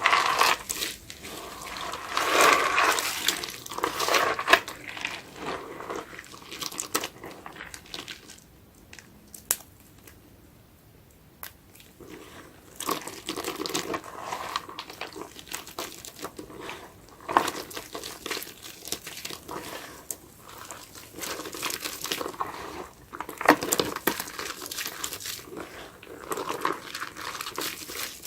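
Sponge full of soap foam being squeezed and worked by hand, giving wet, crackly squeezes in irregular bursts, with a quieter stretch of a few seconds near the middle.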